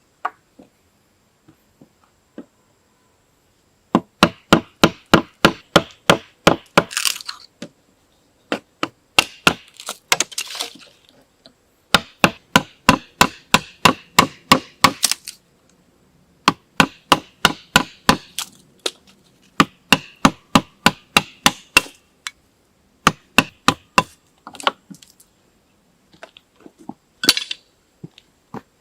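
Wood being struck in quick runs of sharp knocks, about four a second, each run lasting a few seconds with short pauses between.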